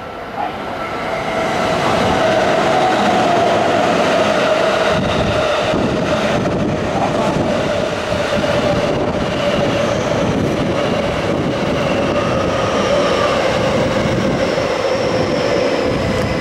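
Electric commuter train running close along the platform, with steady wheel-on-rail rolling noise and clatter. A whine from the train slowly drops in pitch as it slows through the station.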